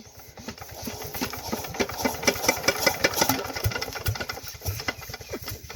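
Single-cylinder Petter diesel engine running with a rapid, even clatter of firing beats, building in loudness over the first two seconds and easing off toward the end.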